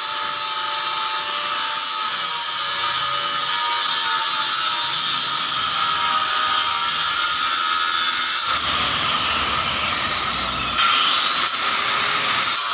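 A power tool running steadily with a high-pitched whir; its sound changes about eight and a half seconds in.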